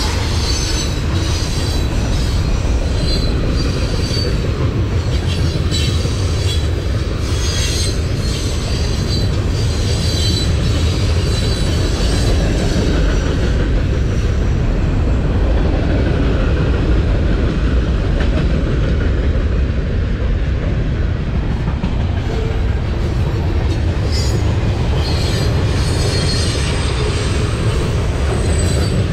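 A train rolling past: a steady heavy rumble of wheels on rail with some clickety-clack, and high-pitched wheel squeal in the first several seconds and again near the end.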